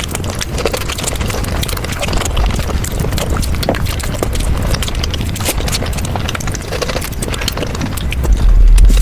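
Eating sounds: chewing, with a steady run of sharp clicks and smacks, and a loud low thump near the end.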